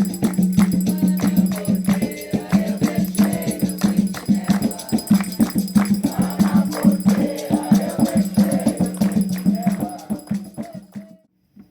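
Umbanda ritual chant: a group of voices singing together over a fast, steady beat of hand percussion and rattles, cutting off suddenly near the end.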